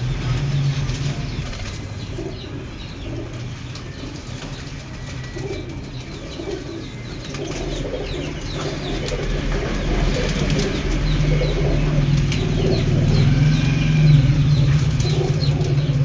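Pigeons cooing over and over, with wings flapping and small birds chirping high above them, over a steady low hum that grows louder after about ten seconds.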